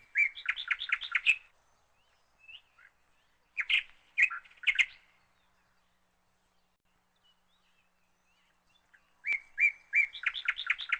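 A bird chirping in three short bursts of quick, high repeated chirps: one at the start, one about four seconds in, and one in the last two seconds.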